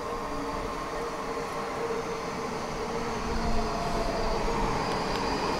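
A red Copenhagen S-train, an electric multiple unit, pulling into the station: a steady rumble with a few held whining tones that grow slowly louder as it draws near.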